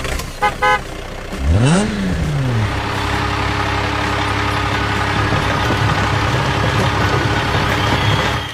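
Vehicle engine starting up: a short rev that rises and falls, then a steady running hum that cuts off suddenly near the end. A couple of short beeps come just before it.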